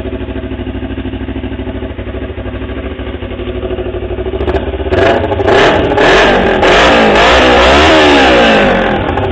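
Kawasaki Ninja 250's parallel-twin engine idling through an aftermarket 2009 Suzuki GSX-R muffler, then revved several times from about five seconds in, the pitch rising and falling with each blip before it drops back to idle near the end. Pretty loud.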